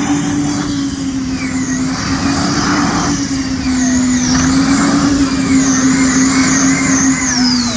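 A pulling tractor of around 4,000 horsepower running flat out under load as it drags the weight sledge: a steady, loud engine note with a high wavering whine over it that falls away near the end.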